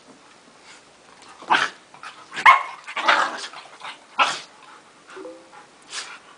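Dogs at play barking: about five short, sharp barks, the loudest about two and a half seconds in.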